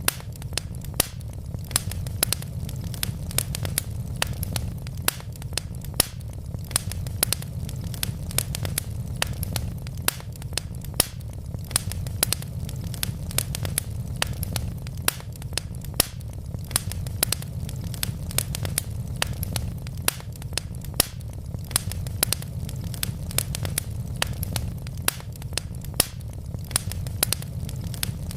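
Wood logs burning in a fireplace: a steady low rumble with sharp crackles and pops, several a second.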